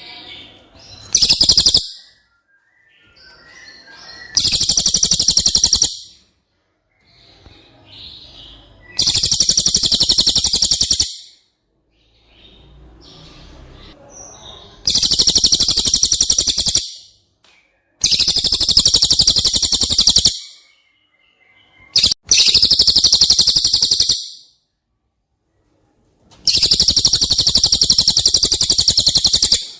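Cililin songbird singing in seven bursts, each a fast, high, rattling trill of one to two and a half seconds, with short pauses between them.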